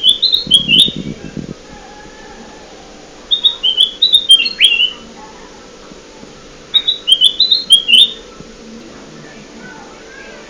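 Kutilang emas bulbul song played as a bird-lure call: three short phrases of quick, high whistled notes, a few seconds apart.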